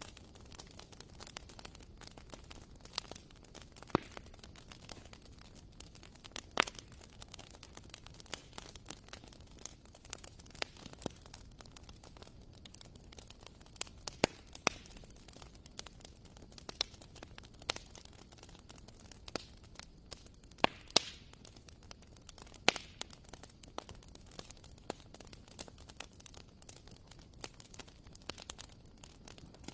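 Wood fire crackling in a fireplace: irregular sharp pops and snaps, some much louder than the rest, over a low steady hiss.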